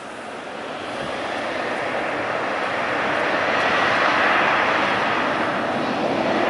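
Jet airliner's engines passing close by, a rushing roar that builds steadily and is loudest about two-thirds of the way through.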